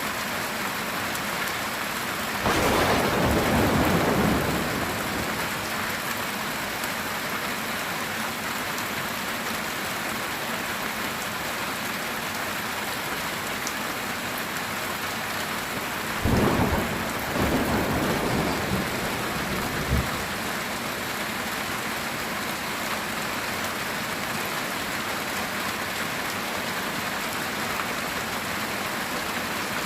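Steady heavy rain drumming on a metal tin roof, with two loud claps of thunder, one about two seconds in that rumbles for about two seconds and another past the halfway mark that rolls on for several seconds and ends in a sharp crack.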